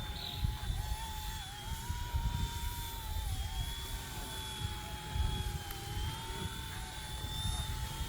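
RC ERA 186C Pro micro RC helicopter's electric motor and rotor running in flight: a thin, high whine that wavers slightly in pitch, with wind buffeting the microphone in uneven gusts.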